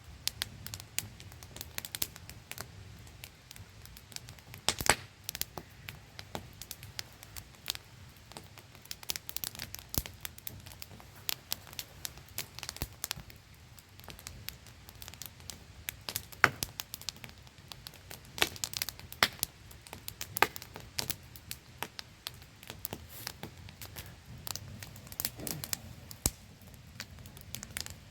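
Wood campfire crackling, with frequent irregular sharp snaps, over the steady static-like hiss of a small waterfall.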